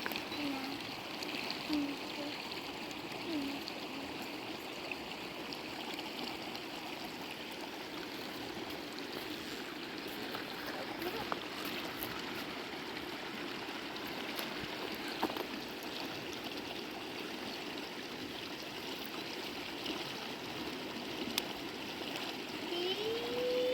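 Stream water flowing steadily, with a few faint ticks.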